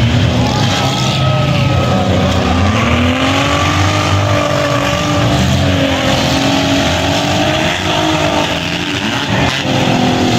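Several compact-car engines revving at once, their pitches rising and falling over one another as the cars drive and ram in a demolition derby heat.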